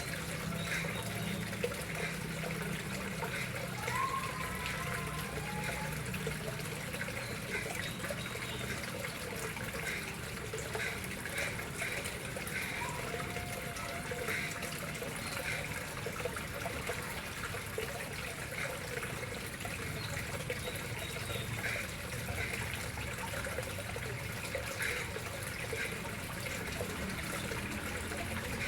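Water running steadily into a koi pond.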